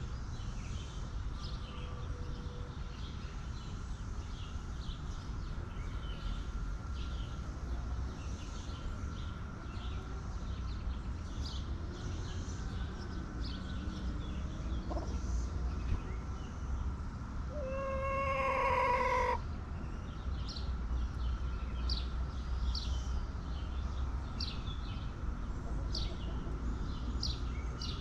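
Chickens of a backyard flock, one giving a single loud drawn-out call lasting under two seconds about two-thirds of the way in, over frequent short high chirps from small birds and a steady low background noise.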